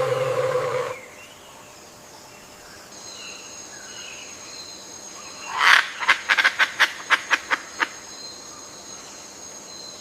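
Rainforest ambience: a low, drawn-out animal call fades out about a second in. Then a steady high insect buzz sets in, and midway one loud call is followed by a rapid run of about ten sharp animal calls, about five a second.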